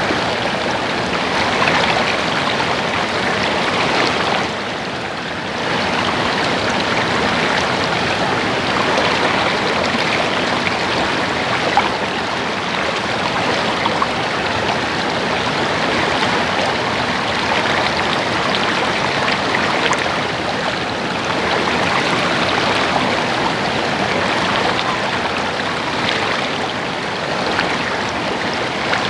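Stream water babbling steadily, an even rushing splash with a short dip in level about five seconds in.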